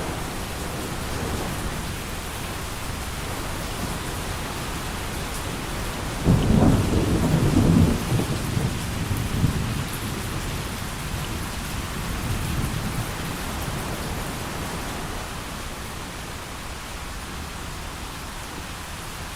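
Steady heavy rain with a clap of thunder about a third of the way in, a low rumble that holds for about two seconds and then rolls off in smaller swells.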